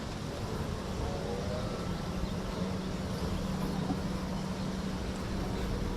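Steady outdoor background noise with a low, even hum that grows clearer partway through, and a few faint chirps about a second in.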